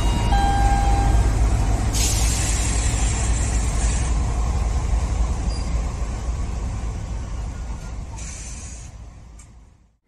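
Train passing: a steady low rumble of wheels on track, with a hiss lasting about two seconds that starts about two seconds in and a shorter hiss near the end, before the sound fades away.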